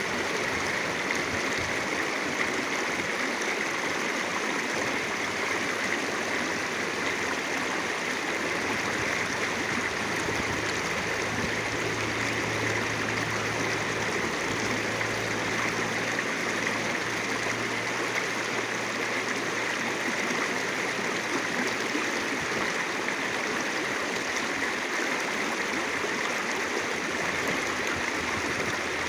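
A clear-water countryside stream flowing, a steady, unbroken rush of water.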